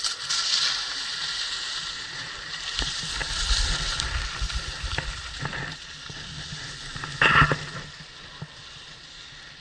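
Skis hissing and scraping over snow while skiing down, with wind rumbling on the microphone now and then and a brief louder scrape about seven seconds in.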